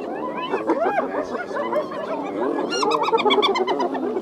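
A clan of spotted hyenas calling together: many overlapping giggling and whooping calls that rise and fall in pitch, with a rapid run of short cackles about three seconds in.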